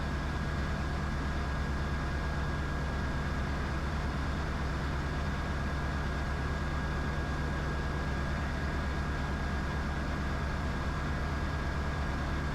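Diamond DA20 light aircraft's piston engine and propeller droning steadily in level flight, heard from inside the cockpit, with a thin steady whine above the drone.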